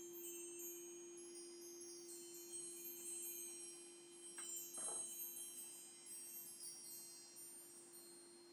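A crystal singing bowl holds one steady low tone while many small high chime tones tinkle in a loose, scattered shower that thins out toward the end. A brief soft rustle comes about halfway through.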